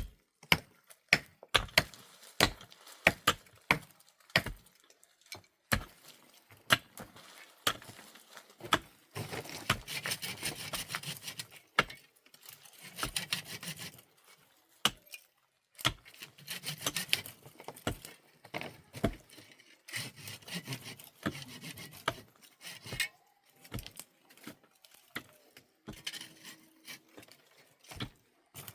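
Hand work on wood: a run of sharp knocks and strikes, then repeated stretches of rasping and scraping, like sawing or rubbing, with more knocks in between.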